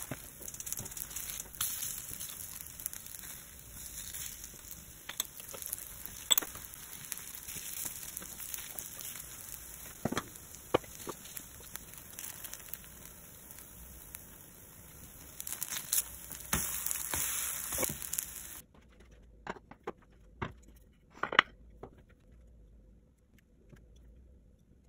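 Cabbage pancakes sizzling in hot oil in the pan, with scattered taps and scrapes of a spatula. The sizzle cuts off suddenly near the end, leaving a few sharp clicks of utensils against a serving plate.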